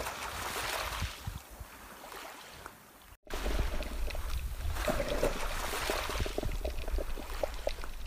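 Underwater water noise: a steady rushing hiss that drops out briefly about three seconds in. It comes back louder, with a low rumble and many small clicks and pops.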